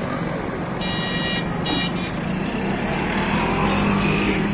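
Railway station platform noise: a steady low engine hum under a continuous din, with a short high-pitched tone about a second in that stops and sounds again briefly.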